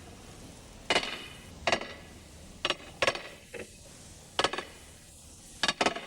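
Hand hammers striking an iron ring to drive it down onto an oak hammer-block trunk: about eight irregular blows, some in quick pairs, each with a metallic ring.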